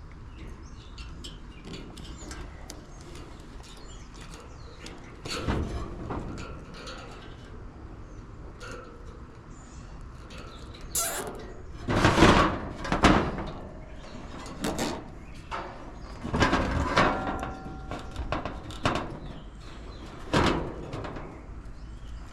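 A series of irregular knocks and clatters, about eight of them and loudest in a cluster just past the middle, from hands and tools working on metal parts, over a low steady background noise.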